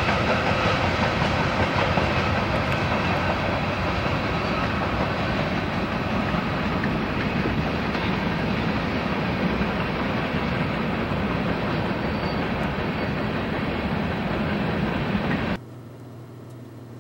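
BNSF freight train's covered hopper cars rolling past on the rails, a loud steady rumble that eases slightly as the train goes by. It cuts off suddenly near the end, leaving a much quieter low hum.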